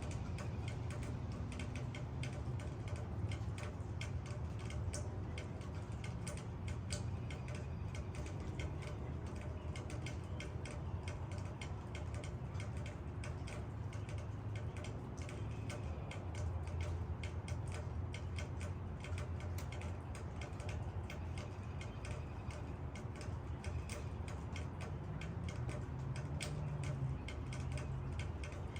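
Rain falling on leaves: many irregular drip taps and ticks, over a steady low rumble.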